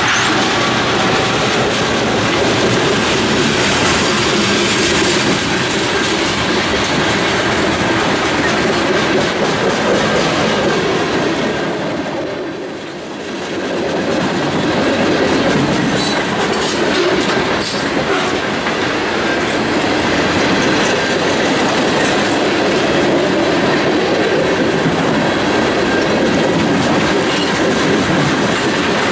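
Freight train cars rolling past close by: a steady, loud noise of steel wheels running on the rails. The cars include centerbeam lumber flatcars, tank cars and covered hoppers. The noise dips briefly about twelve seconds in, then picks up again.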